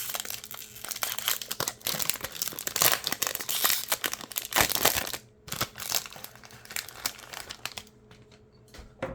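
Plastic wrapper of a Topps basketball card pack being torn open and crinkled, densest over the first five seconds, then a few lighter rustles and a click near the end.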